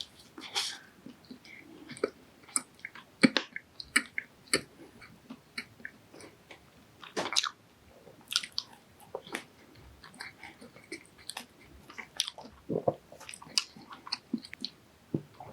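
Close-miked eating: a person biting into and chewing fried doughnuts, with irregular wet clicks and chews and a few longer, louder mouthfuls.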